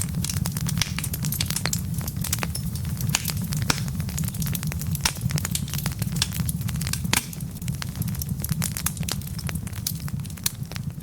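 Wood logs burning in a fireplace, crackling with frequent irregular sharp pops over a steady low rumble. One louder pop comes about seven seconds in.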